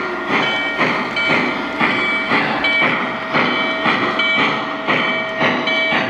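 Lionel Legacy O-gauge model steam locomotive running, its RailSounds speaker putting out a steady chuff about twice a second over the noise of the train on the track.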